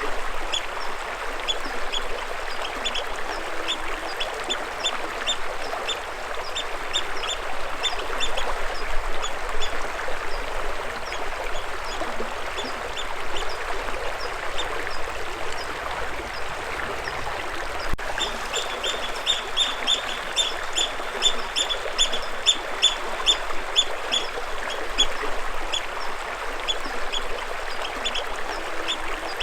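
Birds chirping, short sharp high notes repeated several times a second in bouts, over the steady rush of running water.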